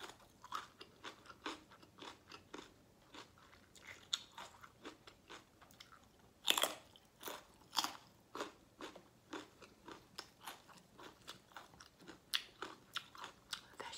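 Close-miked chewing of crunchy food, likely raw carrot, with a run of short crisp crunches and a loud crunching bite about six and a half seconds in.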